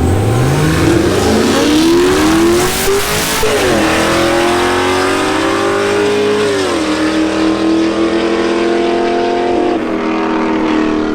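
A car engine revving up over about three seconds, dropping back, then held at high revs with a couple of small dips.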